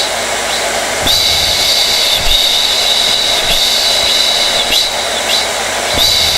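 Hair dryer running steadily: a constant rush of air with a high whine held at one pitch over it.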